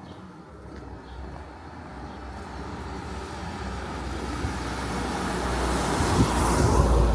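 A motor vehicle approaching along the street, its engine and tyre noise growing steadily louder and loudest near the end.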